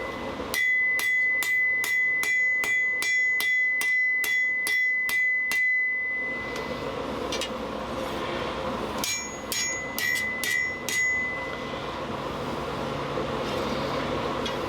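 Blacksmith's hammer striking hot steel on the anvil horn, drawing out the stock: a run of about fourteen even blows at nearly three a second, then a pause with a steady rushing noise, then about six more blows. The anvil rings with a high steady tone through each run of blows.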